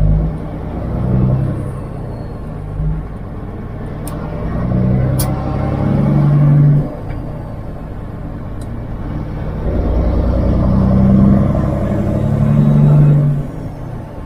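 Kenworth W900 semi truck's diesel engine pulling, heard from inside the cab. The engine sound builds and then drops off sharply twice, as between gear shifts.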